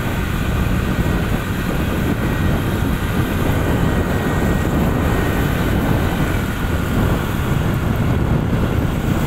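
Steady low rumble of wind buffeting the microphone on a moving motorbike, with the bike's running and road noise underneath.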